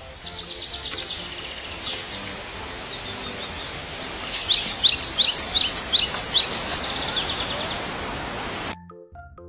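Small bird chirping over a steady background hiss of outdoor noise, with a loud rapid run of about ten sharp high chirps in the middle. It cuts off abruptly near the end, giving way to a few soft musical notes.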